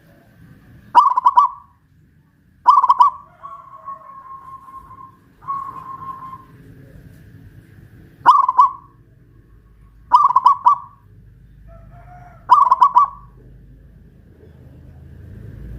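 Zebra dove (perkutut) cooing: five loud, short rolling coos, with softer drawn-out notes in between.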